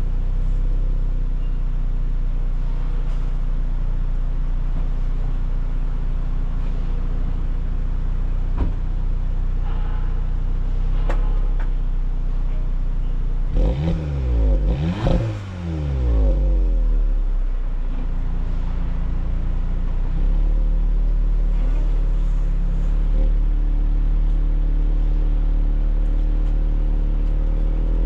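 Volkswagen Polo GTI's 1.8 TSI turbocharged four-cylinder petrol engine idling steadily at the exhaust. About halfway through, a few quick throttle blips rise and fall in pitch before it settles back to idle.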